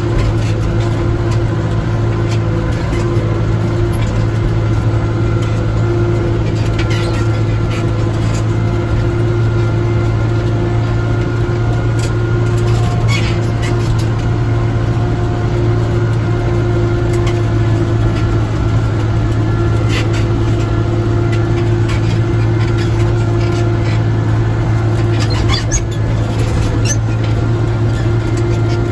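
Tractor engine running at a steady speed while driving across rough ground, a constant low drone with a few brief rattles and clanks from the machine scattered through it.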